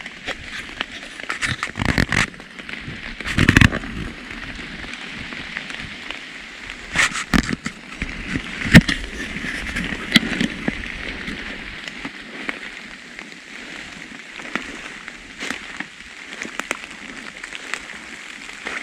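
Footsteps moving through woodland undergrowth, with crackles, twig snaps and brushing knocks at irregular intervals, loudest a few times in the first half. A steady hiss of light rain on the leaves runs underneath.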